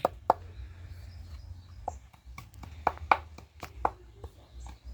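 Knife chopping food on a board: separate sharp knocks at an uneven pace, about ten of them.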